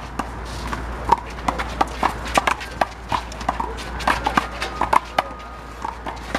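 Big blue handball being slapped by hand and bouncing off the wall and court during a rally: a run of sharp smacks at an uneven pace, a few a second.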